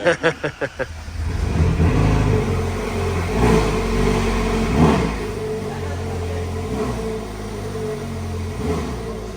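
Ferrari 458 Speciale's naturally aspirated V8 cranked on the starter for about a second, catching and firing up. It is blipped twice over the next few seconds, then settles into a steady idle.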